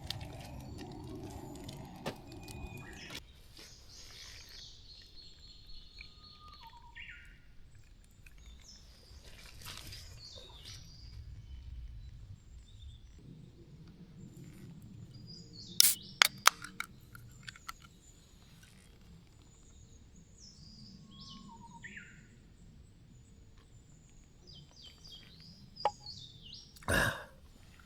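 Wild birds calling and chirping in woodland, with short scattered calls throughout. A few sharp clicks or knocks come about halfway through, and a louder brief noise near the end.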